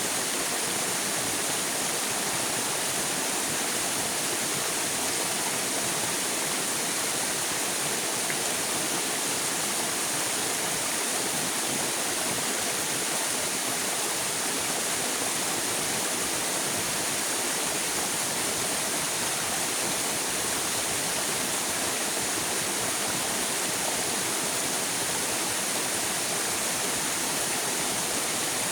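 River water flowing, a steady rushing hiss that does not change.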